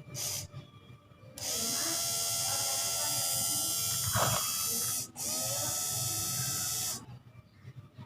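Car power window motor running under power in two bursts, the first about three and a half seconds long, then a brief stop and a second run of about two seconds, each with a short pitch glide as it spins up. This is the motor being run after the repair of its water damage.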